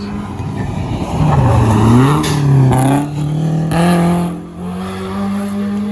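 Rally car engine approaching and accelerating hard past, its note dipping and rising, loudest about two to four seconds in, then fading.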